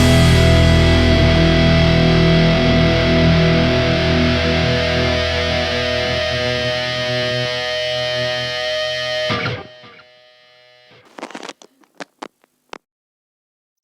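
Distorted electric guitar's final chord ringing out and slowly fading, then cut off sharply about nine and a half seconds in, followed by a few faint clicks.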